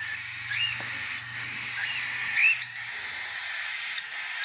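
A small pet bird gives a short chirp that rises and then drops, twice, about a second and a half apart, over a steady high hiss.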